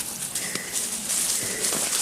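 Footsteps crunching and rustling through the forest floor, with faint scattered clicks, over the steady rushing hiss of a nearby river.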